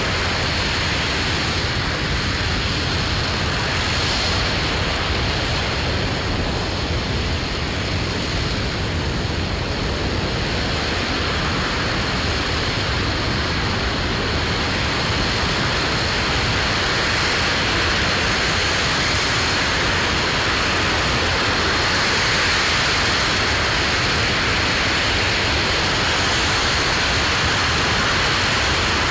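RS-25 liquid-hydrogen/liquid-oxygen rocket engine running steadily during a static test firing: a continuous, even rush of noise with no breaks, and a faint steady high tone above it.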